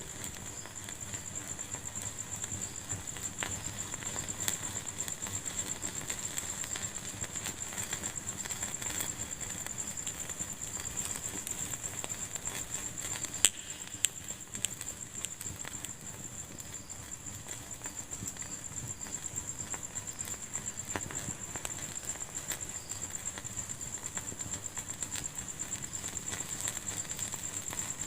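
Wood fire crackling in a fireplace: a steady fine crackle and hiss with scattered pops, the sharpest a pair about halfway through.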